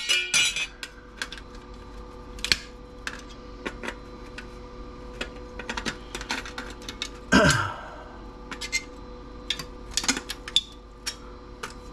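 Small metal covers being pried and torn off an old TV circuit board: irregular clicks and scrapes of thin metal, with one longer, louder noise about seven seconds in.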